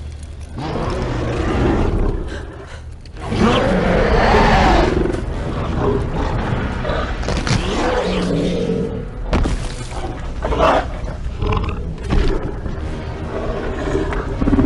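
Dinosaur roars and growls, film-style sound effects, several in a row.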